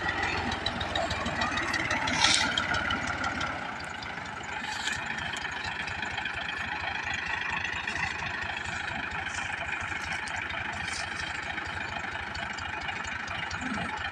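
Diesel tractor engine running steadily. Its low rumble drops away and the overall level falls a little about four seconds in.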